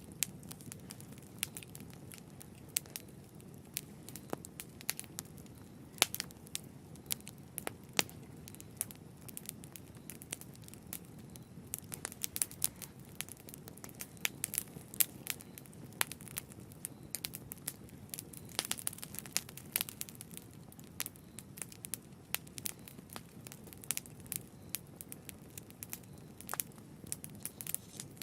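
Wood fire crackling in a fireplace, with frequent irregular sharp pops and snaps over a steady low rumble of the burning fire.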